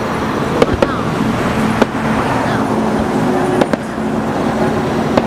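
Fireworks display: about five sharp bangs of bursting shells spaced irregularly, over a steady background din.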